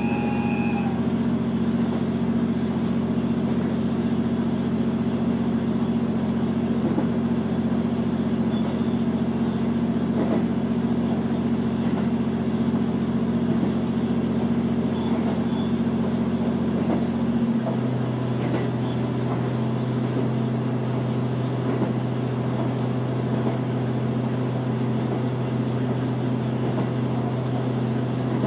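H100 series diesel-electric railcar running, heard from inside: a steady hum from the diesel engine and generator over wheel and rail noise. The pitch of the hum changes about 18 seconds in.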